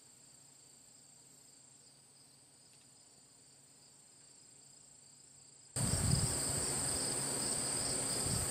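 Insects chirring: a steady high trill with a faster pulsing trill beneath it. It is faint at first and turns much louder about six seconds in, when a low rumble joins it.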